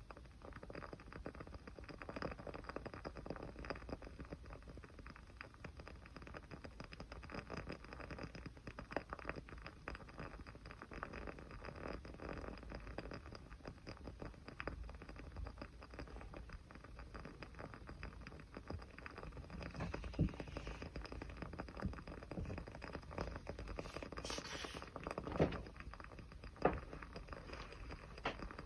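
Small wood fire crackling steadily with dense fine crackles, then a brief hiss and a few sharper pops near the end.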